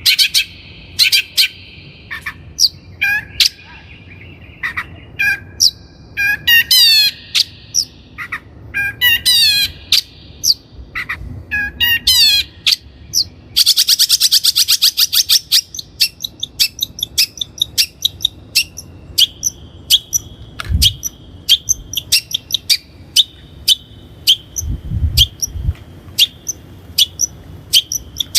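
Long-tailed shrike (cendet, Lanius schach) singing loudly: sharp high chirps and short trilled phrases of falling notes, a fast rattling trill about halfway through, then a rapid string of short sharp notes.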